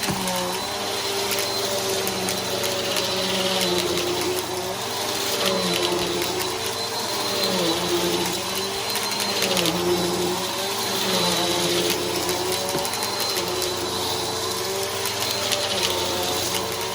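Bissell PowerForce Helix upright vacuum cleaner running with a steady motor whine. Its pitch dips briefly and recovers every second or two.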